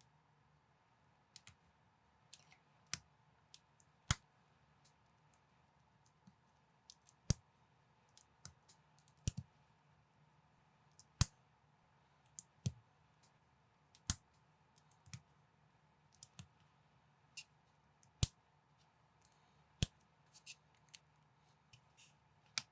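Plastic building bricks clicking and snapping together as they are handled and fitted. The clicks are sharp and come at irregular intervals, some loud and many faint, over a quiet background.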